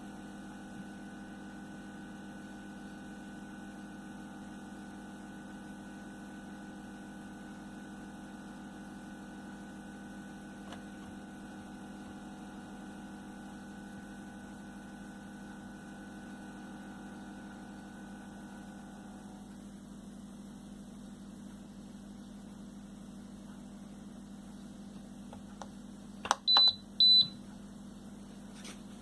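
Twin-head mug heat press humming steadily, with a fainter higher whine that stops about two-thirds of the way through. Near the end its digital timer controller gives two short, loud, high-pitched beeps, the alarm that a pressing cycle has timed out.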